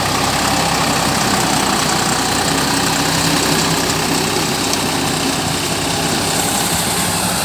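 Deutz-Fahr tractor's diesel engine running steadily.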